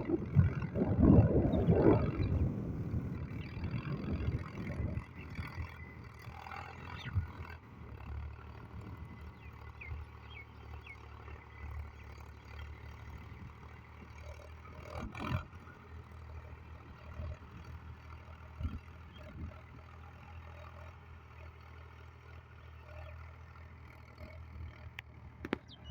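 Tractor engine running steadily with a low hum, louder and rougher for the first few seconds. There is one sharp knock about halfway through.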